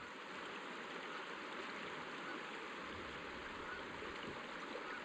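River water running steadily over the rocky shoals of the Catawba River.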